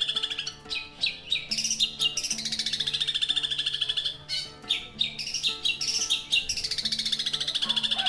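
Long-tailed shrike (cendet) singing in rapid chattering trills and short rattling phrases, high-pitched and continuous, over steady low background tones.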